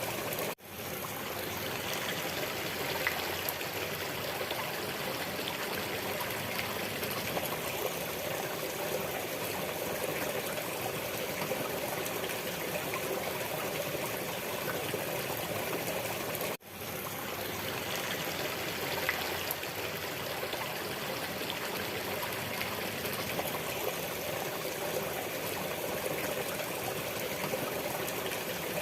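Steady running water of a flowing stream, an even rush with trickling. It drops out for a moment about half a second in and again about sixteen seconds later, where the same stretch of recording starts over.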